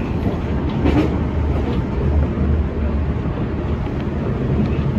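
Semboku Rapid Railway 5000 series electric train running along the track, heard from behind the driver's cab: a steady low rumble with a few short clacks from the wheels on the rails, the clearest about a second in.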